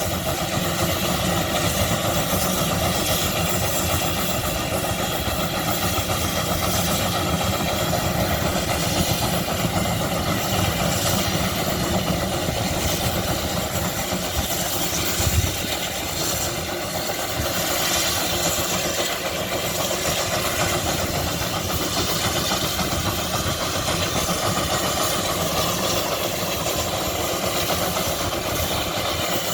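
Antique engine running steadily under a dense, rapid low pulsing, with one short, louder knock about fifteen seconds in.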